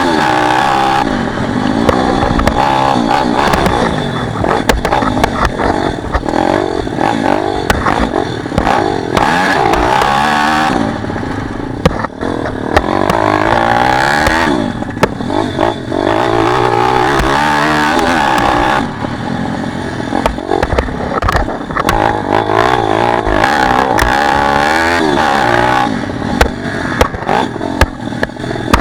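Pit bike engine revving hard and repeatedly rising and falling in pitch as the throttle is opened and shut, with several short drops where the rider backs off. Clattering knocks run through it.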